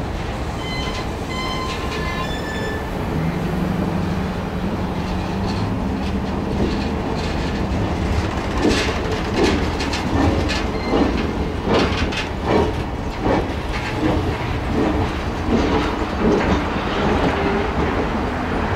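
Circus train passenger cars rolling slowly past, about 10 mph, with the steel wheels clacking over rail joints in a regular rhythm of roughly one clack every 0.7 seconds from about halfway through. Brief high-pitched wheel squeals come in the first few seconds.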